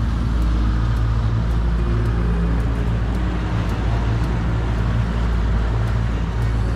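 Boat motor running steadily at trolling speed, with wind and water noise over it.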